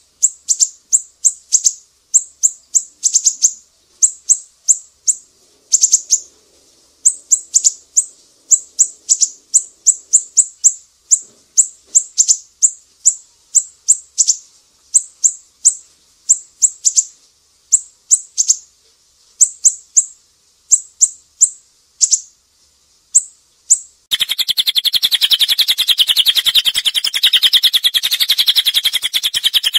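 Recorded songbird calls: short, sharp, high chirps repeated in quick runs, giving way about 24 seconds in to a dense, very rapid unbroken trill from a different bird.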